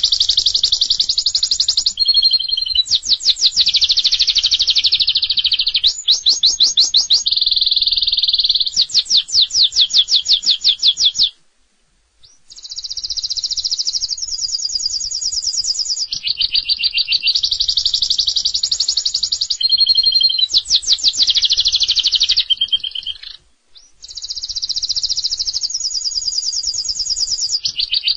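Domestic canary singing a long, fast song of rapid trills and rolling phrases, pausing briefly twice, about eleven seconds in and again about twenty-three seconds in.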